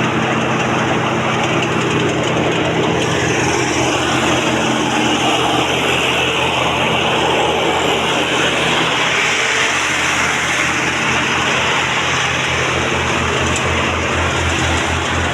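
Tractor engine running steadily, driving a sewer suction machine drawing water and sludge, with a broad hiss over the engine note. A low, regular pulsing beat grows stronger in the last few seconds.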